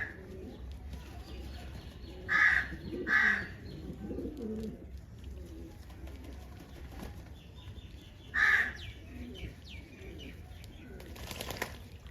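Crows cawing, three loud single caws about two and a half, three and eight and a half seconds in, over low pigeon cooing and faint chirps of small birds. A short burst of rushing noise comes near the end.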